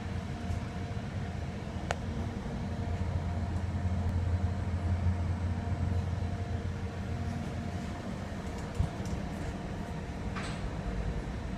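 Passenger train running, heard from inside the carriage: a steady low rumble of wheels on rails that swells a little midway, with a faint click about two seconds in and a short hiss near the end.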